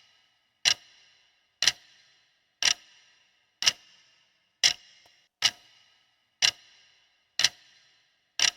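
Clock-tick sound effect of a quiz countdown timer: a sharp tick with a brief ring about once a second, nine times in all.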